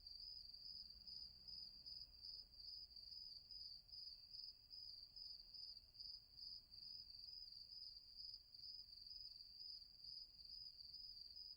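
A cricket trilling steadily at night, one quiet, high, pulsing tone.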